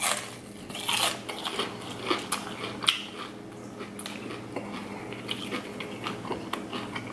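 Chewing a crunchy breaded fried cod bite: irregular crisp crunches and mouth clicks over a faint steady hum.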